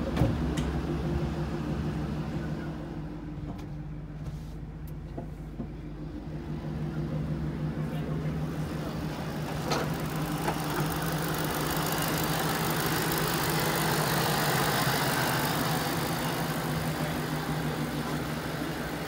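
2008 Ford Mustang Shelby GT500KR's supercharged 5.4-litre V8 idling steadily, a little louder in the second half, with a single sharp click about ten seconds in.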